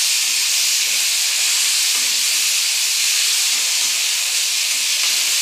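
Chopped onion, green chilli and tomato sizzling steadily as they fry in oil in a kadai.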